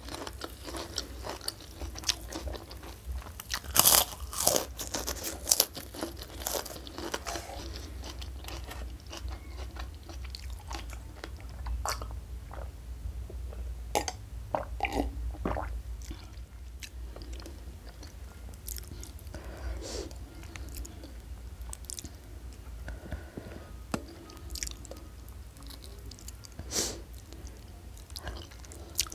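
Close-up mouth sounds of eating: crisp crunching of a kerupuk cracker dipped in sambal, densest and loudest in the first several seconds, then thinning to sparser crunches and quieter wet chewing.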